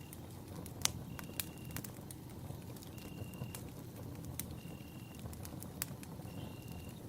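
Campfire burning with a steady low rush, broken by sharp wood crackles and pops; the loudest pop comes just under a second in. Underneath, a short, faint, steady high note repeats about every second and a half.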